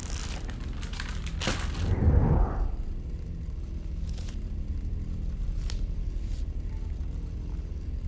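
Sound effects from a music video's soundtrack: a low rumble with a few crashing, crackling hits in the first couple of seconds, then a steady low drone with a few fainter hits.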